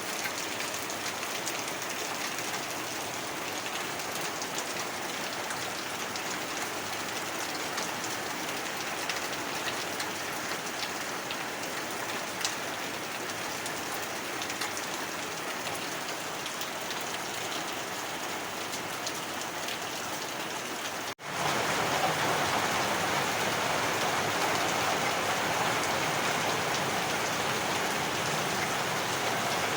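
Heavy rain falling steadily, a dense hiss with scattered drop ticks. About two-thirds of the way through it drops out for an instant and resumes louder.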